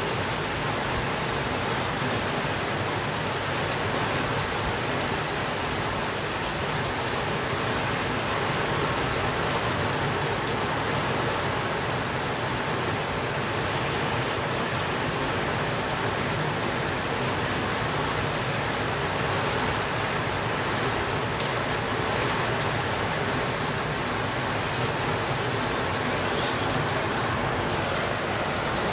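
Steady, even rainfall, with a few faint scattered ticks over it.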